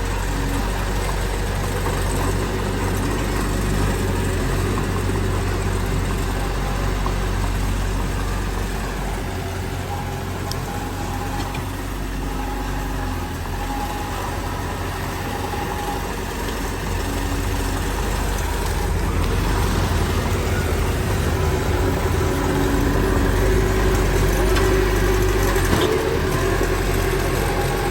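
Heavy diesel earthmoving machinery running steadily with a deep rumble, louder for several seconds about two-thirds of the way in.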